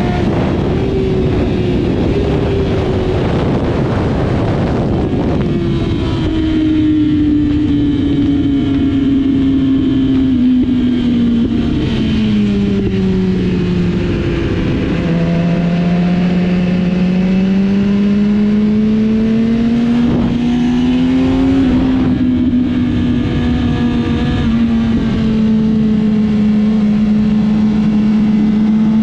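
Motorcycle engine running hard on a racetrack, over a steady rush of wind. Its pitch sinks gradually to a low point about halfway through, then rises slowly again.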